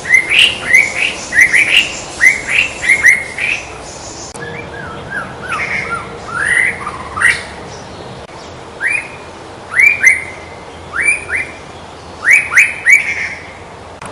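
White-rumped shama (murai batu) singing: quick runs of short, sharply rising whistled notes, repeated with brief pauses between the runs.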